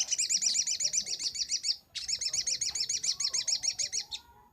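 Little spiderhunter (sogok ontong) singing: two fast runs of sharp, evenly repeated high notes, each about two seconds long with a short break between.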